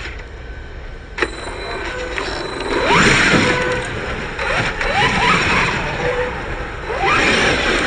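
Electric motors of radio-controlled cars whining in quick rising sweeps as they accelerate, several times over the steady noise of the running cars, with a sharp click about a second in.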